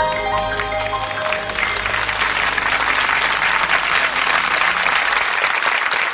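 The last held notes of a pop song die away in the first second, then audience applause swells up and goes on steadily.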